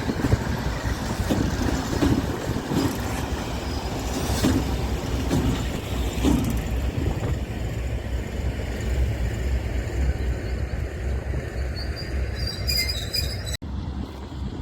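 Freight train wagons rolling past, a steady rumble with a few knocks from the wheels in the first half. A brief high wheel squeal comes near the end, just before the sound cuts off suddenly.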